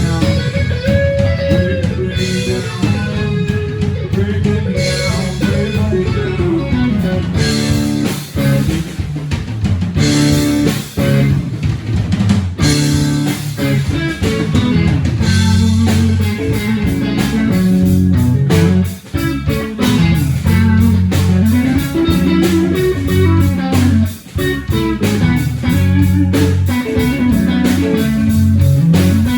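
Live blues-rock band playing an instrumental passage: electric guitar lead with bending notes over bass guitar and drums.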